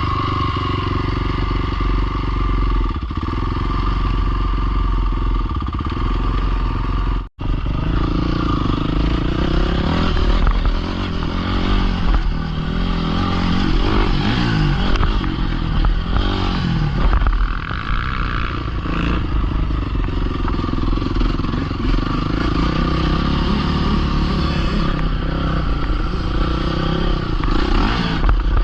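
Dirt bike engines running and revving, the pitch rising and falling with the throttle. The sound cuts out for an instant about seven seconds in.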